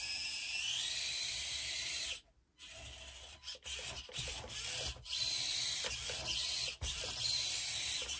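A small electric RC crawler's motor and gears whine as it climbs a steep ramp, the pitch rising and falling with the throttle. The sound cuts out briefly about two seconds in, then comes back in short stop-start spurts.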